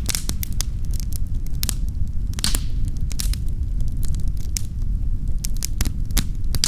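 Fire in a fireplace crackling: irregular sharp pops over a steady low rumble. A louder pop with a short hiss comes about two and a half seconds in.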